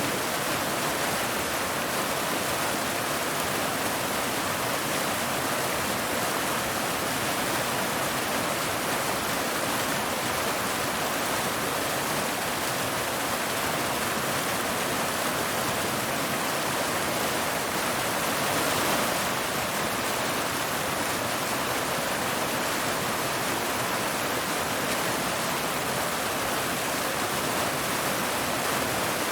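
Waterfall: water falling and splashing over rocks in a steady, unbroken rush, swelling slightly about two-thirds of the way through.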